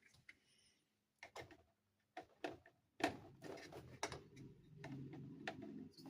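Small plastic toy pieces being handled, giving sharp clicks and taps. They are sparse at first, with dead-silent gaps between them. About halfway through, a steadier low rustling starts under further clicks.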